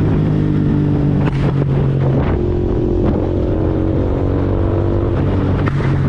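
KTM Duke 390's single-cylinder engine through an Arrow full-system exhaust, running steadily under load at highway speed, with a couple of brief breaks in the note about a second in and near the end.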